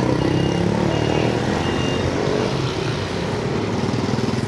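Street traffic of motorbikes and scooters, their small engines running close by in a steady dense mass. A few short high beeps sound in the first two seconds.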